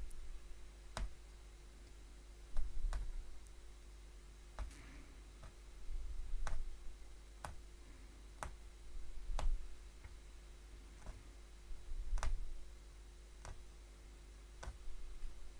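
A punch needle being stabbed through fabric stretched taut, making a sharp click with each stroke, about one a second and slightly irregular. Dull low bumps every few seconds come from the frame or hoop being handled, over a faint steady hum.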